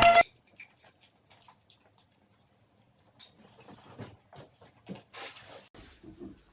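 Background music cutting off just at the start, then faint scattered clicks and short rustles of people eating chicken by hand and handling their plates, busier in the second half.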